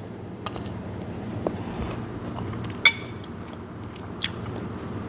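Cutlery clinking lightly against a dish three times, the loudest clink about three seconds in, over a low steady hum.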